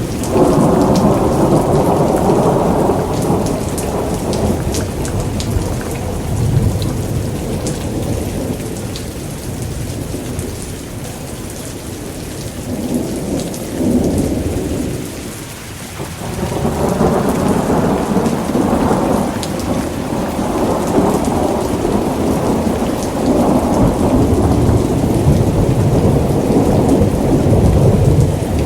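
Thunderstorm: steady heavy rain with long rolling thunder. The rumble swells at the start and dies down, lulls briefly past the middle, then builds again and carries on to the end.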